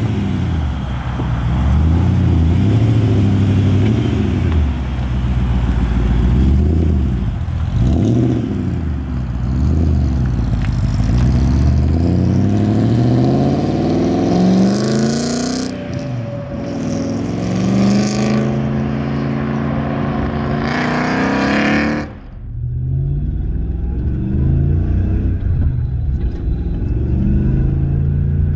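BMW M60 V8 engine in an E23 7 Series accelerating hard, its note rising in pitch and dropping back at each gear change. About 22 seconds in the sound drops suddenly to a lower, steadier engine note.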